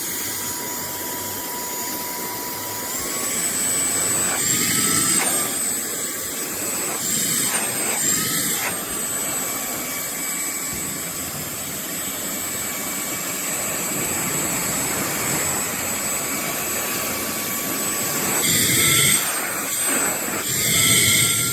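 TANYO cordless handheld vacuum cleaner running with a steady high-pitched whine, which rises in pitch several times and settles back.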